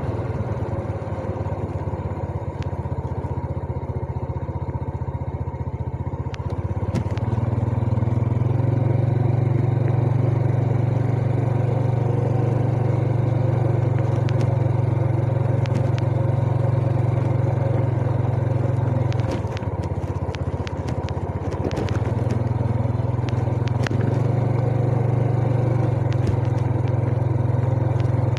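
Yamaha Jupiter Z underbone motorcycle's single-cylinder four-stroke engine running under way. The engine note climbs and gets louder about seven seconds in, eases off briefly around twenty seconds, then picks up again. A few short clicks and rattles are heard near the easing-off.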